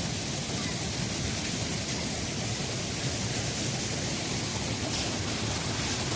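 Steady rush of water at a spring, an even noise without breaks.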